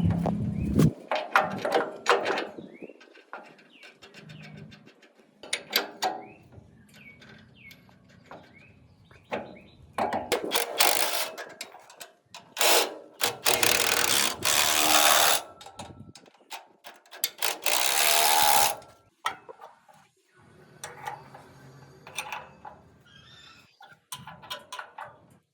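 Workshop handling noises: metal clicks, knocks and ratcheting from parts being worked on. About ten seconds in come three loud bursts of rushing, hiss-like noise, each lasting one to three seconds.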